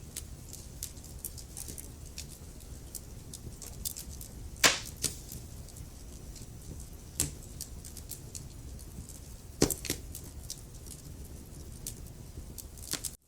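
Wood fire crackling: a constant run of small sharp crackles over a low steady rumble of the flames, with a few louder pops, the loudest about a third of the way in. The sound cuts out for an instant near the end.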